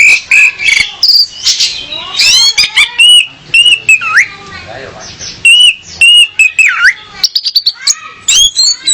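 Orange-headed thrush, the female as billed, singing a rapid, varied string of sharp whistled notes that sweep up and down, mixed with quick clicky chips.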